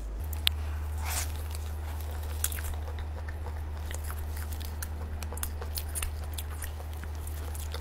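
Close-up mouth sounds of biting into and chewing a nem chua, a soft fermented pork roll with garlic, dipped in chili sauce: scattered wet clicks and smacks, with a sharp click about half a second in. A steady low hum sits underneath.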